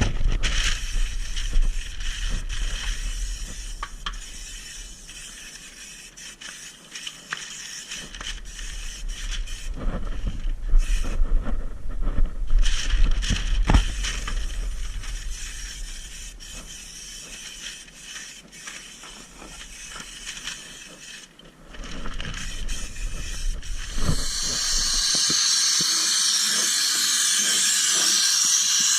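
Compressed-air spray gun hissing as rust-proofing coating is sprayed onto a car, on and off with short pauses, then steadily and louder for the last few seconds. A low hum runs underneath and stops about 25 seconds in.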